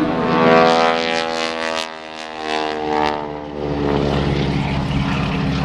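Propeller airplane's engine and propeller passing by low, a loud drone that falls in pitch as the plane goes past and then settles into a steadier, lower drone.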